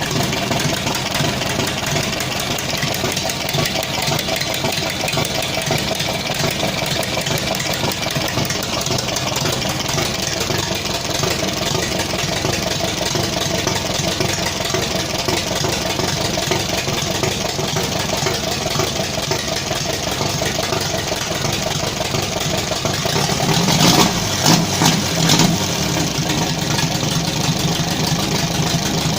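Engine for a homemade ZAZ-engined motorcycle, running on a small 150 cc carburettor, idling steadily, with a few short louder blips of the throttle near the end.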